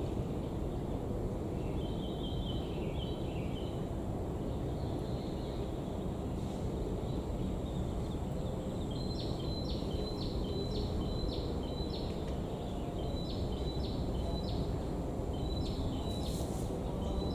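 Steady rain noise, with a bird calling in a run of short, high repeated notes, about two a second, through the second half.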